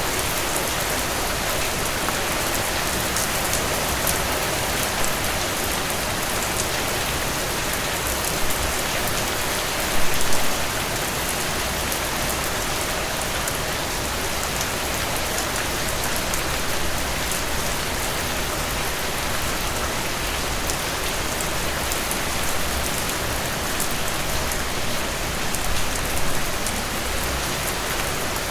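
Heavy rain pouring steadily, a dense wash of drops hitting surfaces, with a brief louder burst of splashing about ten seconds in.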